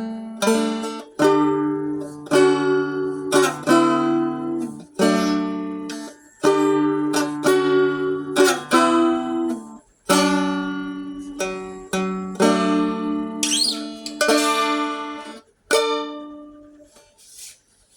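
Seagull Merlin stick dulcimer being strummed: a melody over steadily ringing drone strings, played in short phrases with brief breaks. Near the end the last notes ring out and fade away.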